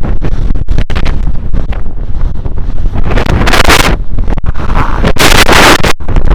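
Strong gale buffeting the microphone with a constant heavy rumble, and two louder hissing gusts about three and five seconds in.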